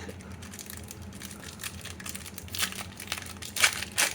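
Foil wrapper of a Pokémon trading-card booster pack crinkling as it is handled and opened, in a run of rustles with a few louder bursts in the second half.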